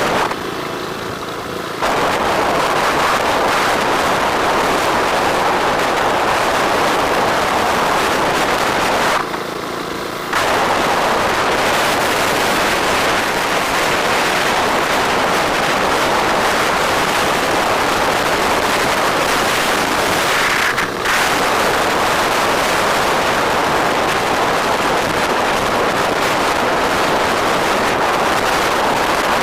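Wind buffeting the camera microphone on a moving bike, a loud, steady, crackling rush. It drops away twice for a second or so, once near the start and once about nine seconds in.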